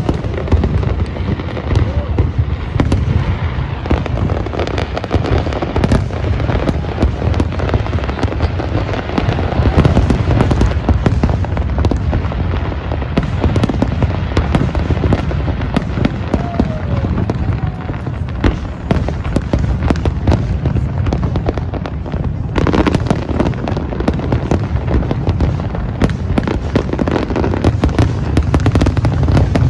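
Fireworks display: aerial shells bursting in rapid, continuous succession, a steady run of booms and crackles with no lull, over the voices of a crowd of onlookers.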